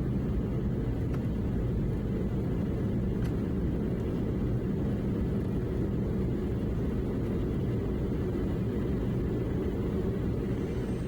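Steady low rumble inside the cabin of a Boeing 717 airliner: engine and airflow noise that holds level without rising or falling.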